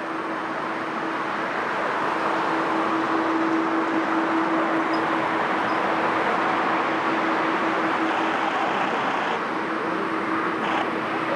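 Jet airliner engine noise: a steady, loud rushing that swells slightly after about two seconds, with a constant low hum running underneath.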